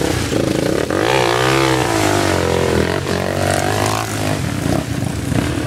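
Dirt bike engine revving hard, its pitch rising and falling as the bike struggles in deep mud with the rear wheel spinning and throwing mud.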